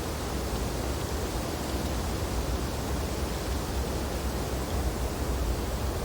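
Wind blowing steadily through tree branches in snowy weather: a continuous hiss with a deep, steady rumble underneath.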